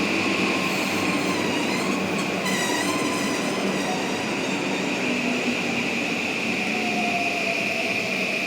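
Toei Subway 5500 series electric train running in the station: steady rolling noise under a motor whine whose pitch slides gently, with a brief high wheel squeal about two seconds in.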